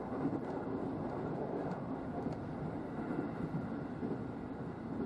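Electric commuter train running on the line, heard from inside the car: a steady rumble of wheels on rails.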